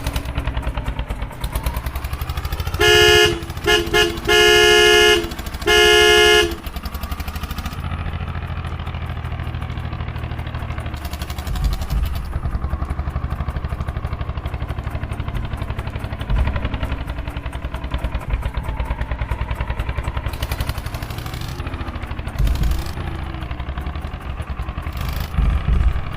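Tractor diesel engine running steadily with a fast, even chugging, and a horn honked four times a few seconds in.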